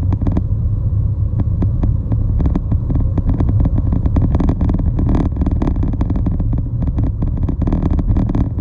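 Steady low rumble of a moving road vehicle, with road and wind noise and frequent small knocks and rattles.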